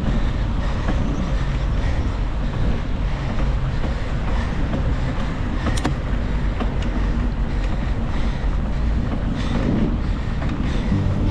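Steady road noise from a bicycle ride through city streets in the rain: a low rumble of tyres on wet asphalt and passing traffic, with a few sharp clicks, one loud one about six seconds in.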